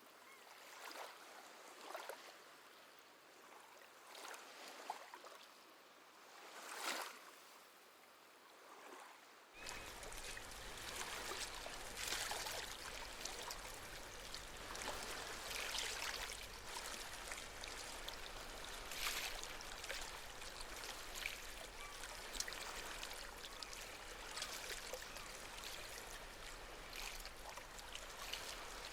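Gentle small waves lapping and trickling over the shore, at first as separate soft washes. About ten seconds in the sound switches abruptly to a fuller, steady wash of water.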